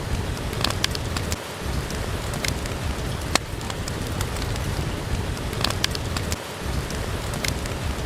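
Steady rain with a low rumble, and fireplace wood fire crackling with a few sharp pops scattered through it.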